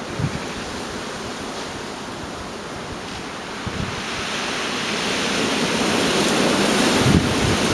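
Gale-force storm wind blowing, building into a stronger gust over the last few seconds, with wind buffeting the microphone near the end.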